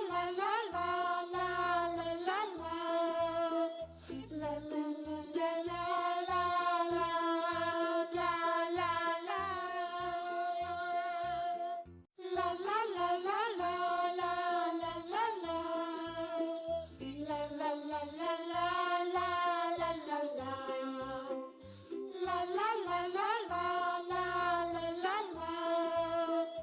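Children's background song: a high voice sings a wordless melody over a light, steady beat. It cuts out briefly about twelve seconds in, then starts again.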